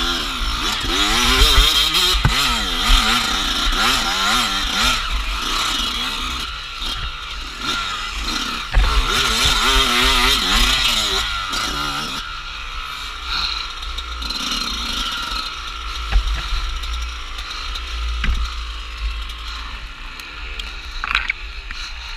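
Off-road dirt bike engine revving, its pitch rising and falling over and over as the throttle is worked, then dropping to a quieter, steadier running about halfway through.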